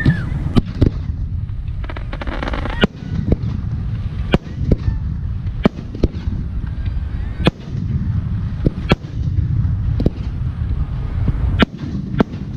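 Aerial firework shells bursting one after another, about a dozen sharp bangs at uneven gaps over a steady low rumble. A short falling whistle sounds at the very start, and a stretch of crackling comes about two seconds in.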